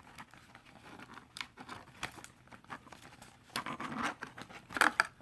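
Remote being worked out of its cut-open packaging: irregular crinkling, tearing and clicking, busiest and loudest in the last second and a half.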